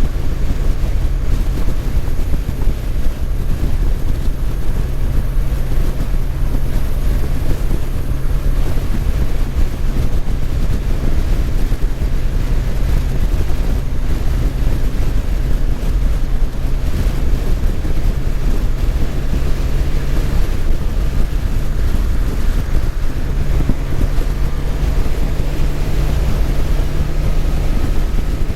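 Motorcycle engine running at speed under heavy wind buffeting on the microphone, its steady drone shifting slightly in pitch near the end.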